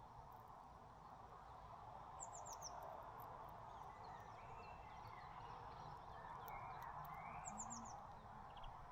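Small songbirds calling faintly: a quick run of four high, thin, falling notes comes twice, with a few softer chirps between, over a steady background hiss.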